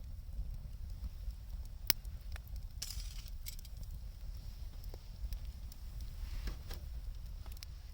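Wood fire crackling, with scattered sharp pops, the loudest about two seconds in, and a couple of brief hissing rushes.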